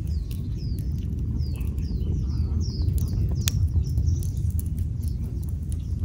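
A small bird calling with a quick run of short falling chirps, over a steady low rumble of wind and the occasional sharp crackle of burning wood in a small wood fire.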